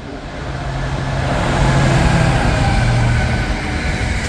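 British Rail Class 66 diesel-electric freight locomotive passing under power, its two-stroke V12 diesel engine running hard with a steady low drone that grows louder over the first couple of seconds as it comes by.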